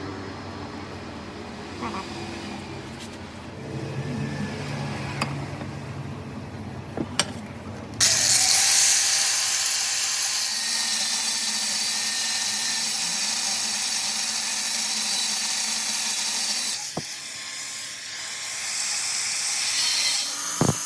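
Workshop metalwork on a small generator engine's crankshaft: light clicks and knocks of metal parts being handled, then about eight seconds in a loud, steady noise from a tool starts abruptly, breaks off for a moment near the end and starts again.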